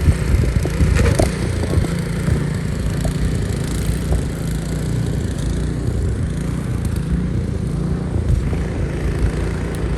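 Snowblower's gasoline engine running steadily.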